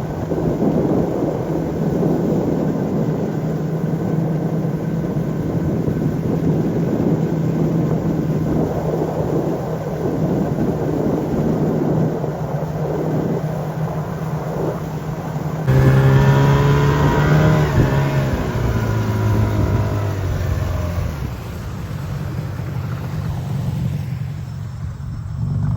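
A motor engine running steadily under a rush of wind noise. About sixteen seconds in the sound changes suddenly, and the engine's tone comes through more clearly and steps down in pitch before easing off.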